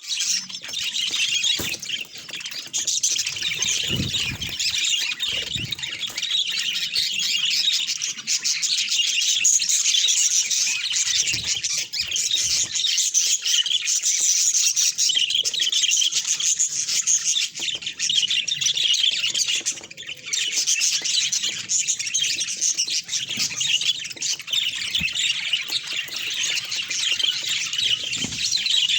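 A flock of budgerigars chattering and chirping together in a dense, continuous stream of warbles and squawks, with a few soft low thumps here and there.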